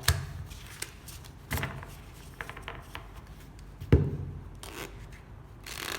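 Playing cards being gathered and handled on a table: rubbing and sliding, with a few sharp knocks, the loudest about four seconds in.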